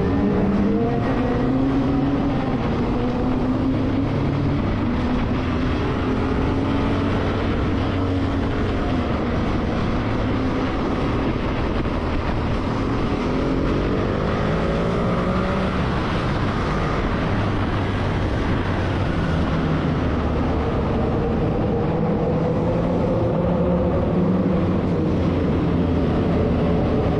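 Motorcycle engine running under way, its pitch rising and falling as it speeds up and eases off, over steady road and wind noise.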